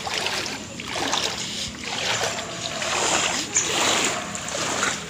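Floodwater swishing and splashing in surges about once a second, as legs wade through it.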